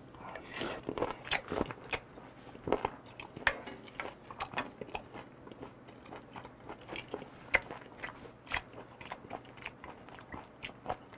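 A person chewing a mouthful of raw beef and chopped raw octopus (sogogi nakji tangtangi): an irregular run of short mouth clicks and smacks, several a second.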